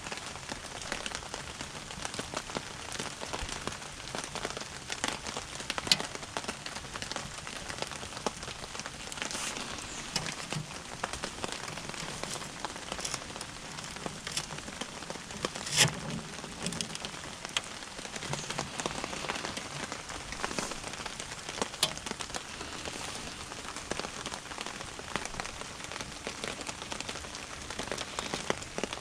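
Steady rain falling, with many small drips and ticks and a few louder, sharper taps scattered through it, the strongest about halfway.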